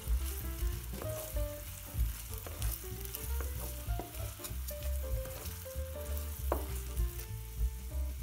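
Diced onion and garlic sizzling and crackling in hot oil in a ceramic-coated frying pan, stirred with a wooden spatula. Background music plays underneath.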